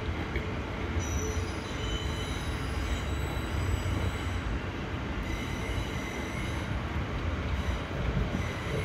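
Amtrak Downeaster passenger car heard from inside while under way: a steady low rumble of wheels on rail, with faint high squealing tones from the wheels from about a second in.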